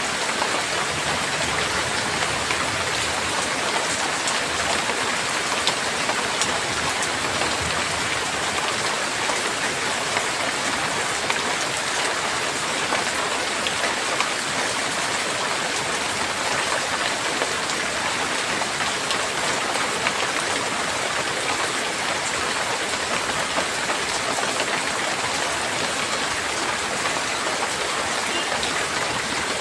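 Steady rain falling, an even hiss with scattered individual drop impacts.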